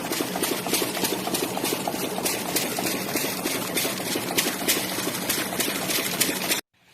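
Rushing, splashing water, loud and steady with a faint low hum under it, cutting off suddenly near the end.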